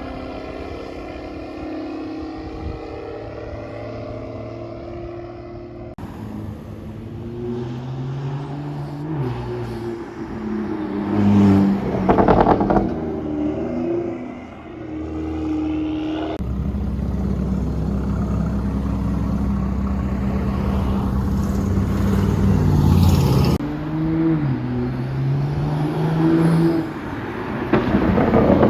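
Turbocharged N55 inline-six of a BMW 335i, breathing through a catless downpipe and AWE cat-back exhaust, running and revving in several edited clips. The engine pitch climbs and drops repeatedly, with the loudest revs about halfway through and near the end. The sound changes abruptly at three cuts.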